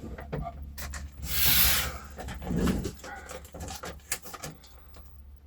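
Vinyl wrap film being trimmed with a blade along the edge of a speaker cabinet: small clicks and handling noise with one hissing scrape of the blade through the film a little over a second in. A short low grunt-like sound follows about a second later.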